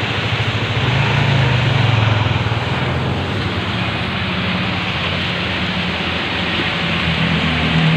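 Heavy rain pouring down steadily, with a motor vehicle's engine hum running underneath and growing a little louder near the end.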